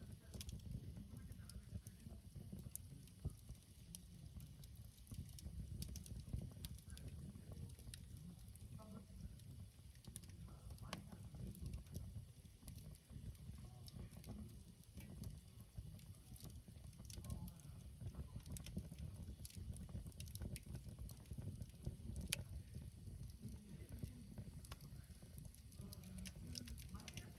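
Wood campfire burning, with scattered faint pops and crackles over a steady low rumble.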